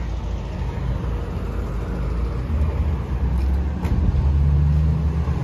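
A classic car's engine rumbling at low revs as it drives slowly past, growing louder toward the end.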